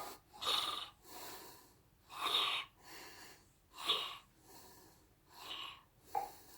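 A person breathing audibly in a steady rhythm: a stronger breath about every second and a half, with fainter breaths between.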